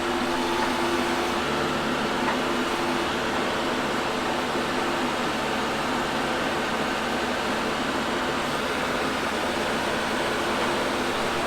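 An engine running steadily, a constant even noise with a low hum and no change in speed.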